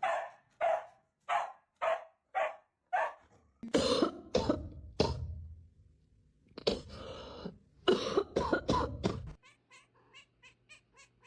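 A pet animal giving a quick series of about seven short calls, then harsh, cough-like sounds, then a run of faint quick ticks near the end.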